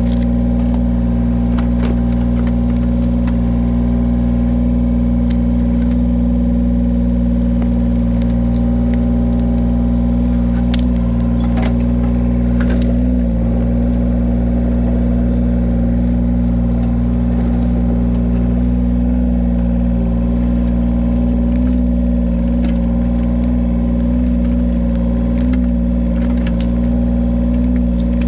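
Engine of a firewood splitting machine running steadily at constant speed, with a few sharp cracks and knocks of wood as logs are split, mostly around the middle.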